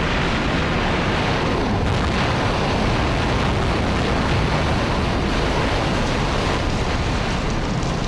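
Active volcanic crater venting: a loud, steady rumbling rush of noise with no separate blasts.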